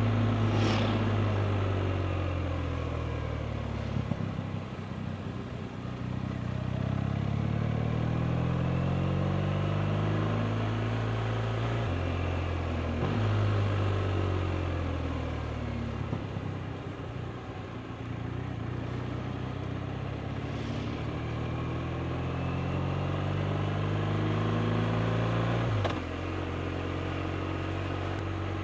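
BMW R 1250 RT's 1254 cc boxer-twin engine pulling through the gears as the bike rides. The revs climb and fall repeatedly, with a sudden drop in pitch at a gear change about twelve seconds in and again near the end. There are two spells of easing off the throttle, with wind noise underneath.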